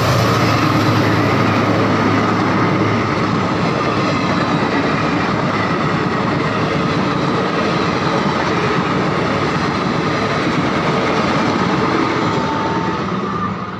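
Diesel-hauled Indian Railways passenger train passing close at speed: the locomotive's engine rumbles for the first few seconds, then the coaches' wheels run loudly and steadily over the rails, with a steady high ringing tone over the noise.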